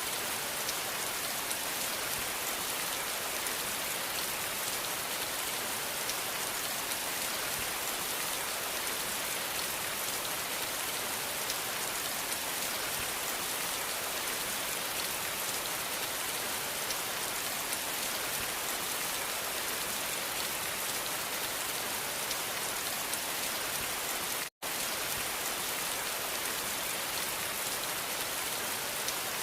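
Steady rain falling, a dense even hiss with fine pattering drops. The sound cuts out completely for a split second late on, then resumes unchanged.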